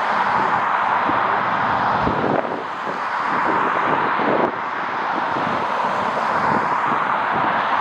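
Strong gusty wind blowing over the microphone: a steady rushing noise with irregular buffeting, easing slightly for a couple of seconds partway through.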